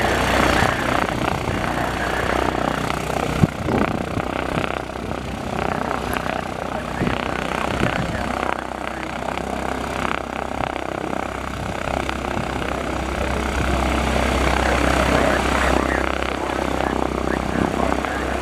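Single-engine Cessna's piston engine and propeller running steadily, growing a little louder near the end. A single sharp click about three seconds in.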